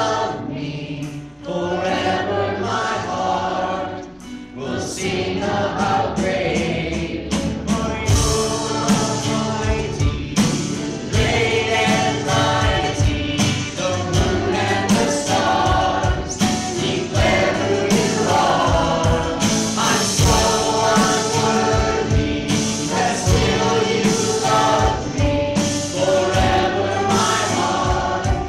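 Worship music: voices singing together in a choir, with instrumental accompaniment. A steady drum beat comes in about eight seconds in.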